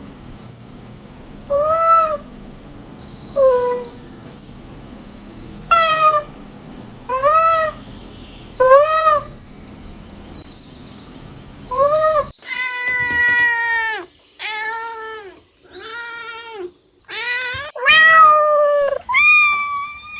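Domestic cat meowing over and over, short rise-and-fall meows every second or two. About twelve seconds in, a run of longer, closer-spaced meows that drop in pitch at their ends.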